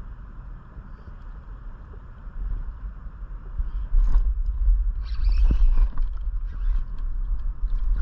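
Wind buffeting the microphone as a low rumble that grows stronger about two and a half seconds in and again at four seconds, with a couple of sharp knocks and a brief hiss around the middle.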